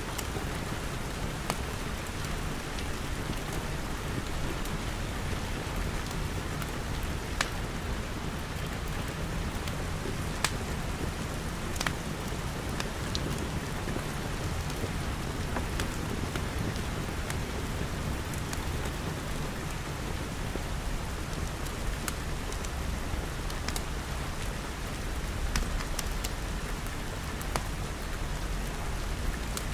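Steady rain with a low rumble underneath and scattered sharp ticks and crackles.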